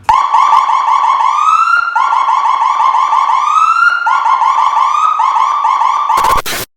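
Electronic police siren of a patrol motorcycle: a pattern of rapid chirps followed by a rising sweep, repeating about every two seconds, three times. It ends with a short harsh burst and cuts off abruptly.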